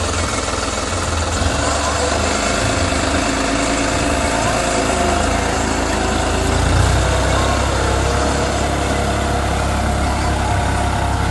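Tractor diesel engine running steadily while pulling a plough, swelling briefly in loudness about two-thirds of the way through.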